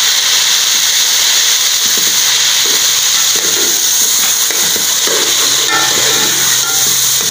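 Raw chicken pieces sizzling loudly in hot oil in an aluminium pot: a steady frying hiss. From about two seconds in, a metal slotted spoon scrapes and stirs them in the pot.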